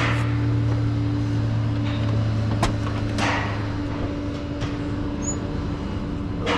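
A tow truck's engine running with a steady drone, with a sharp clank about two and a half seconds in followed by a short scraping rush.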